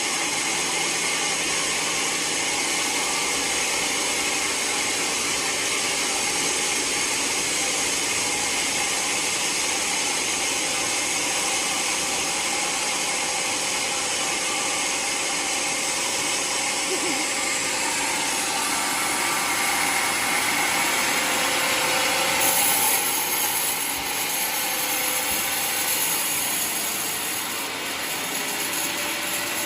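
Homemade sawmill running and sawing a waru log into planks, a steady mechanical whirr and cutting noise. About two-thirds of the way through the sound turns brighter and hissier.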